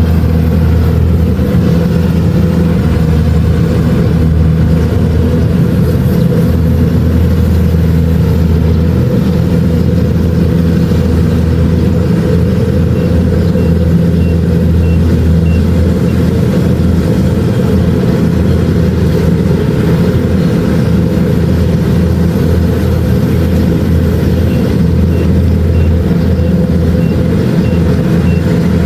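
Kubota DC-70 Plus rice combine harvester's diesel engine running steadily under load while harvesting, a loud, even low drone.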